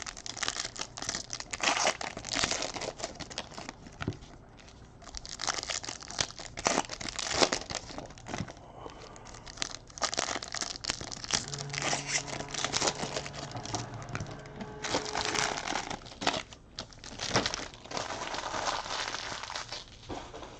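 Trading card pack wrappers being torn open and crinkled by hand, irregular rustling and tearing in clusters as packs are opened one after another.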